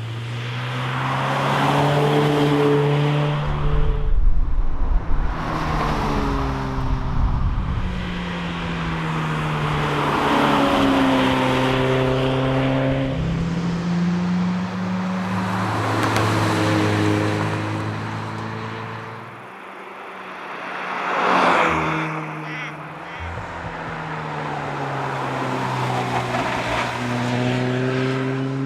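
Toyota 86's flat-four boxer engine accelerating hard through the gears, each rising pull cut by a drop in pitch at the upshift, over and over. About three quarters through, the engine eases off and a short loud rush of noise passes.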